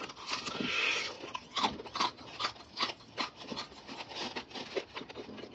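Crispy breaded fried chicken being bitten and chewed: an irregular run of short crunches and clicks.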